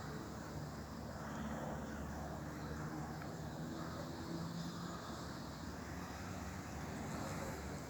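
Distant airplane's steady, low drone.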